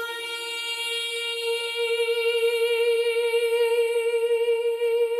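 A singer holds one long note on the word "free", steady at first and then with a light vibrato, fading out at the end.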